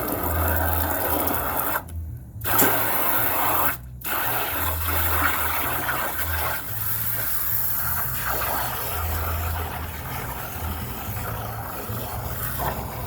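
Water spraying and splashing steadily over plastic ride-on toys as they are rinsed off, the sound briefly cutting out twice in the first few seconds.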